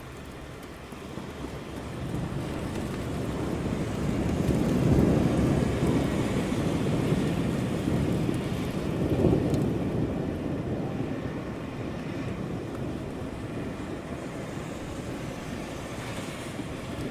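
Rolling thunder over steady rain: a low rumble swells over a few seconds, peaks twice, about five and nine seconds in, then slowly fades back to the rain.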